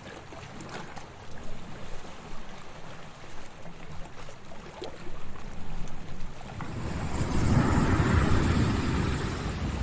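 Sea waves: water lapping with small splashes, then about two-thirds of the way in a wave breaks and washes in with a swelling rush that eases off near the end.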